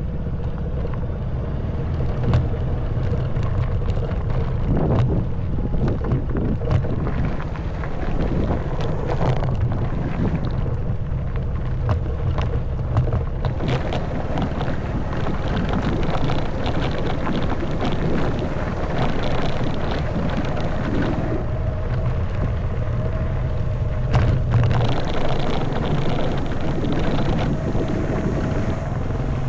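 Honda Wave 110cc single-cylinder four-stroke engine running steadily under way, with many small knocks and rattles from the wheels going over a loose gravel and stone road, and wind noise on the microphone.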